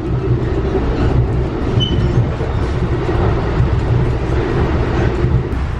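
Steady, loud rumble of a moving passenger train, heard from inside the carriage.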